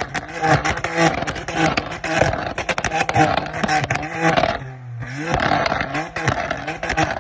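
Car engine held on a two-step launch rev limiter, its revs bouncing at the limiter while the exhaust crackles and pops rapidly. About four and a half seconds in it drops briefly to a low idle, then revs back up onto the limiter.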